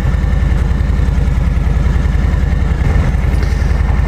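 Harley-Davidson Milwaukee-Eight 107 V-twin engine with true dual pipes, running steadily with an even low pulsing beat.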